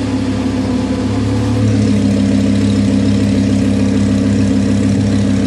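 Performance vehicle engine with an expensive aftermarket exhaust idling steadily at a constant pitch, a deep even drone.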